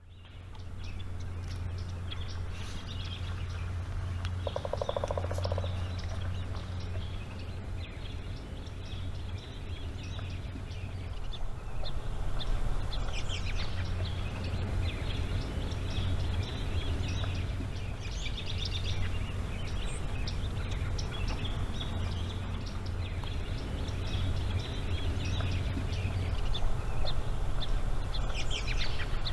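Wetland ambience: wild birds chirping and calling on and off, with a short buzzy call about five seconds in, over a steady low hum.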